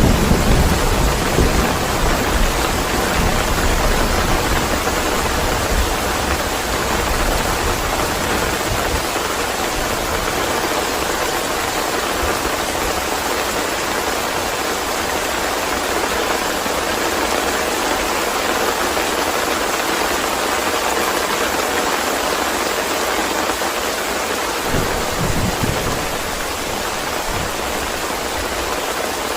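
Steady heavy rain, with deep rolls of thunder at the start and again near the end.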